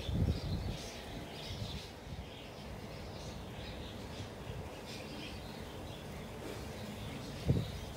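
Small birds chirping here and there over a steady low background rumble, with a dull thump near the end.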